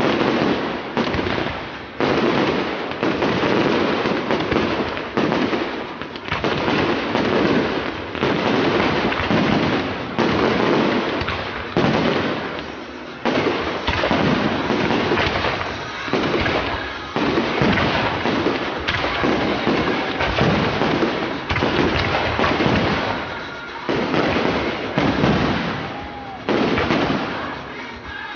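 Fireworks display firing a dense, unbroken barrage of bangs and crackle, with fresh volleys setting in every second or two.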